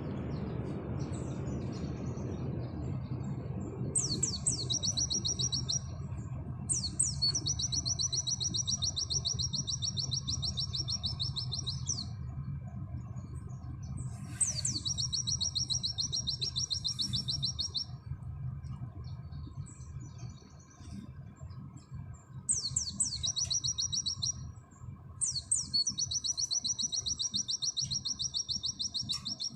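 White-eye (pleci) singing in rapid-fire 'nembak' phrases: about five high song bursts, each opening with a few quick sweeping notes and running straight into a fast, even trill, the longest lasting about five seconds. A steady low hum runs underneath.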